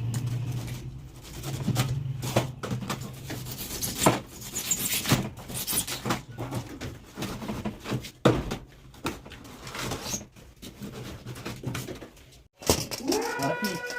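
Irregular clicks and knocks of hand-tool and handling work over a low steady hum. The hum drops away about eleven seconds in, and near the end a sustained sound of several steady tones starts with a rising glide.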